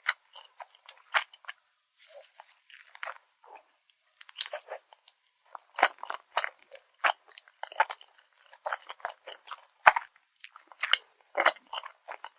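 Close-miked chewing of grilled garaetteok (Korean cylindrical rice cake) with jocheong grain syrup: irregular bites, chews and mouth clicks, with one sharp, louder click about ten seconds in.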